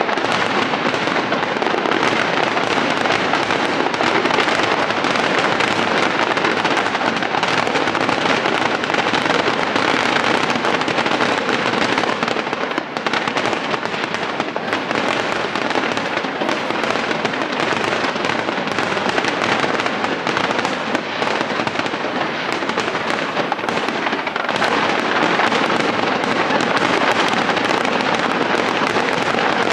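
Fireworks display: aerial shells bursting in quick succession, a dense, unbroken run of bangs and crackle with no pauses.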